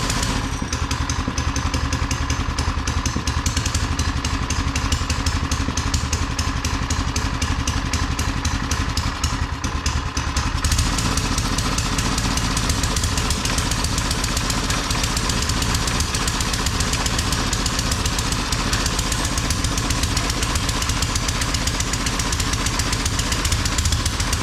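Small single-cylinder engine of a Doodlebug minibike running steadily without revving up, because a loose governor spring is holding it back. About ten seconds in, the sound turns brighter and harsher.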